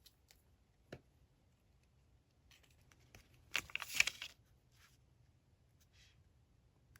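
Paper being handled at a desk: a soft tap about a second in, then a short crinkling, tearing rustle lasting under a second near the middle.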